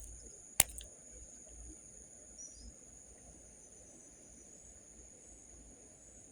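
Crickets or other insects trilling in a steady high-pitched chorus, with one sharp click a little over half a second in.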